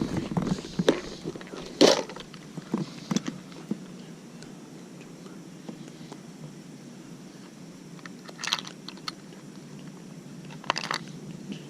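Scattered close-up clicks, taps and rustles of handling, with a sharp click about two seconds in and short rustling bursts near eight and a half and eleven seconds.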